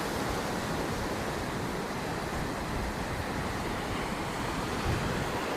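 Ocean surf washing against the shore in a steady wash, with wind buffeting the microphone.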